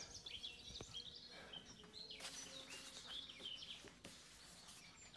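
Quiet room with faint bird chirps scattered throughout, along with soft handling noises as a large, heavy book is moved and its thick pages are turned.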